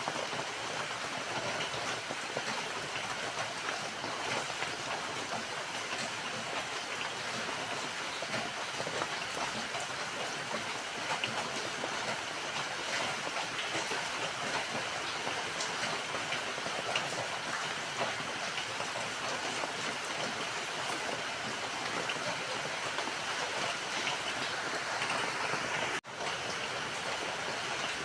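Steady rain falling, a dense even hiss of many drops with fine ticks through it. The sound drops out for a split second about two seconds before the end, then resumes.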